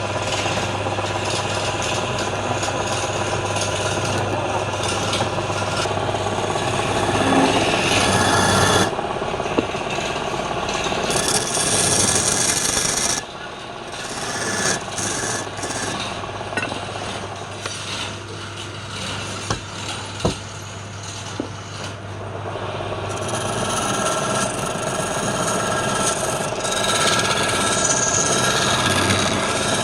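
Wood lathe running with a steady motor hum while a turning tool scrapes against spinning palm wood. The scraping eases off for about ten seconds midway, then comes back.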